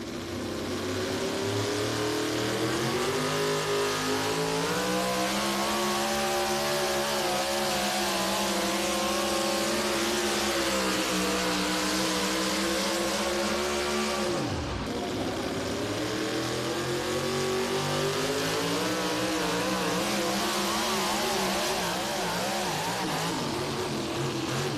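Four-wheel drive pulling truck's engine running at high revs under heavy load during a pull. The note climbs at the start and holds high with a wavering pitch; about halfway through it plunges sharply for a moment, then climbs back and holds again.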